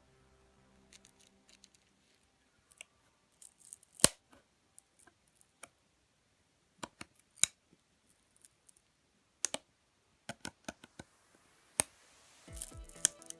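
Scattered small, sharp clicks and scratches of plastic tablet parts and small tools being handled during disassembly, some single and some in quick clusters. Background music fades in near the end.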